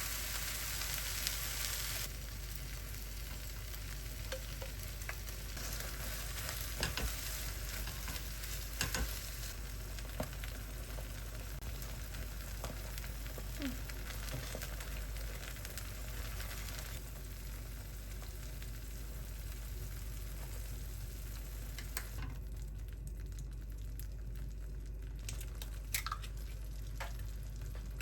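Food sizzling in a frying pan, with a few sharp clicks of a utensil against the pan. The sizzle quietens about two seconds in and dies down much further in the last few seconds.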